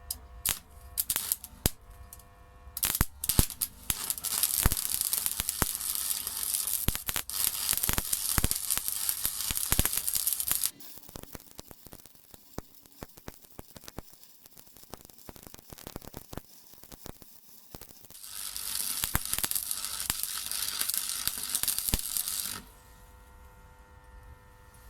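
Stick-welding arc crackling and sizzling from a Parkside PESG 120 B3 transformer arc welder as a bead is run, with sputtering strikes at the start and two long burns broken by a stretch of scattered crackles. Near the end the arc stops and the welder's transformer hums.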